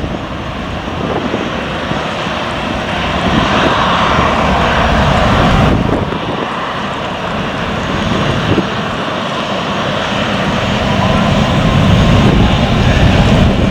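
Jet engine noise from a departing Boeing 737-800's CFM56 turbofans, a steady loud rush that grows louder toward the end.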